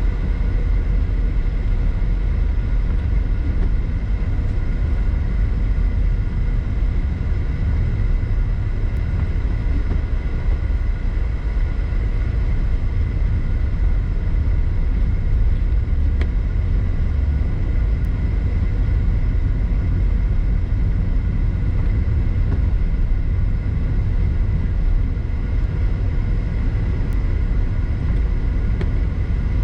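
Car on the move, a steady low road and engine rumble heard from inside the cabin through a dash camera.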